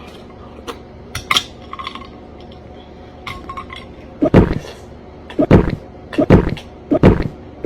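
A spoon clinking against a bowl of cereal, then a run of louder knocks about a second apart in the second half.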